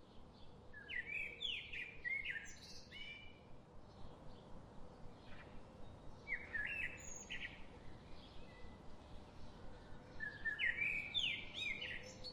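A songbird singing the same short phrase of quick rising and falling whistled notes three times, about four seconds apart, over steady background noise.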